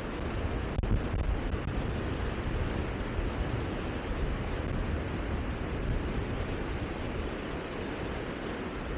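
Steady rushing noise of wind outdoors, with a low gusty rumble of wind buffeting the microphone.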